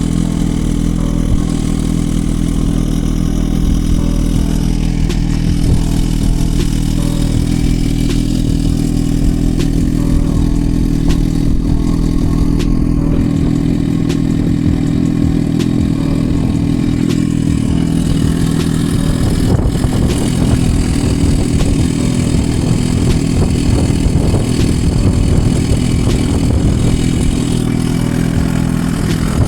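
2023 Suzuki GSX-R1000R's inline-four engine idling steadily.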